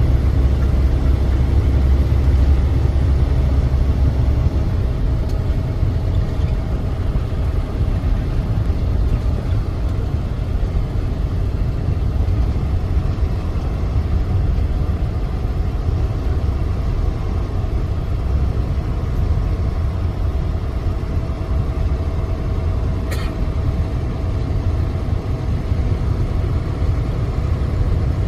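Semi-truck running with a steady low engine rumble, and a single short click about 23 seconds in.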